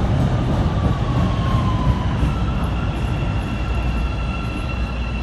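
CTA 5000-series rapid transit train running at the platform with a heavy rumble. An electric whine slides down in pitch in the first couple of seconds, then settles into two steady tones while the sound slowly gets quieter.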